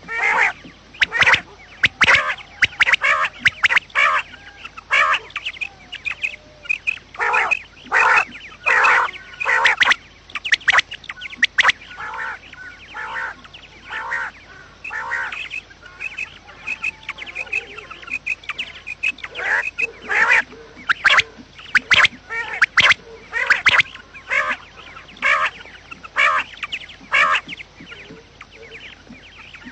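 Quail calling over and over: short, sharp calls in quick clusters, one after another with brief gaps.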